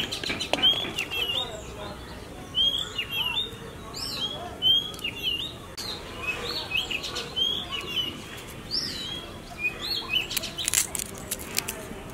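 Small birds chirping, many short repeated calls throughout, with a brief cluster of sharp clicks about ten seconds in.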